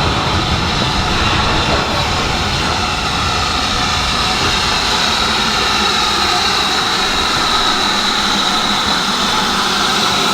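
Steam locomotive venting steam: a loud, steady hiss with a faint high, whistle-like tone running through it.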